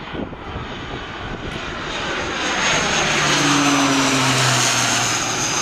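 An airliner on landing approach passes close by. The engines' roar and high whine swell to a peak about halfway through, with the pitch dropping slightly as it goes past.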